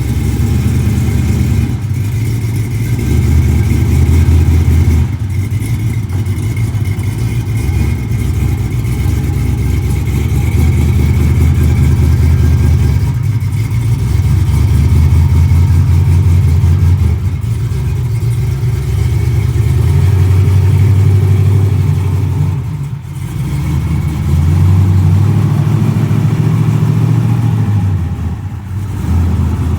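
Truck engine running loud, its revs rising and easing in stretches, with two brief dips in level near the end.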